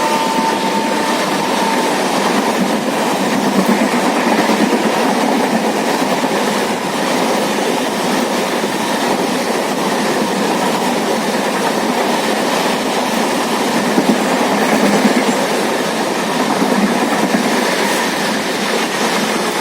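Shatabdi express train running past at speed: a steady, loud rush of wheels on rails that lasts throughout. The last of its horn note dies away about two seconds in.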